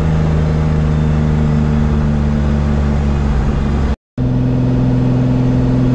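BMW S50 straight-six engine of an E36 drift car running at a steady cruise, heard inside the car's cabin. The sound drops out for a moment about four seconds in, and the engine note comes back a little higher.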